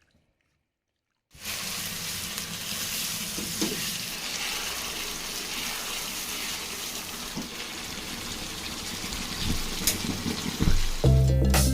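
Food frying in a pan of hot oil: a steady sizzle that starts about a second in, with a few light clicks and pops. Music comes in near the end.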